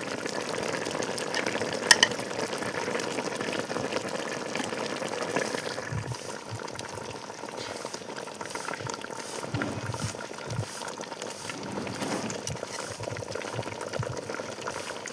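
Fish curry bubbling as it simmers in a pan, a steady hiss and bubble that eases a little after about six seconds. A single sharp clink about two seconds in.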